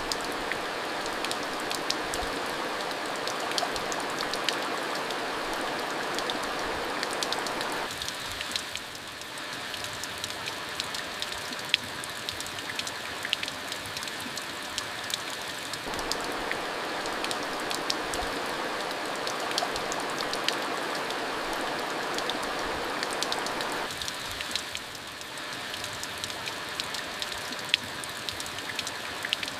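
Monsoon rain falling steadily: an even hiss with many individual drops ticking sharply through it, dipping briefly in loudness twice.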